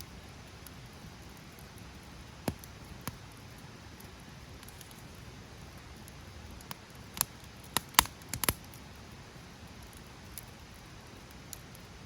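Wood fire crackling, with scattered sharp pops at irregular intervals that come thickest about two-thirds of the way in, over a faint steady background hiss.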